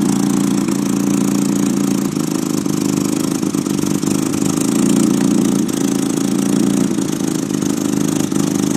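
Nissan SR20DET turbocharged four-cylinder idling roughly and unevenly, missing, with an exhaust leak. The owner put the rough running down to a slight oil overfill with the car on jacks.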